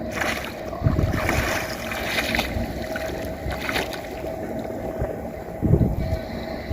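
Wind buffeting the microphone by the water, with a steady hum running underneath.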